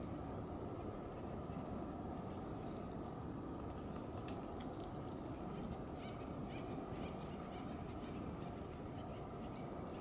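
Scattered short, high bird chirps, busiest around the middle, over a steady low outdoor rush that is the loudest sound throughout.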